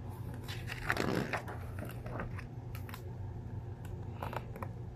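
A picture book's paper page being turned and handled: a brief rustle about a second in, then a few light clicks.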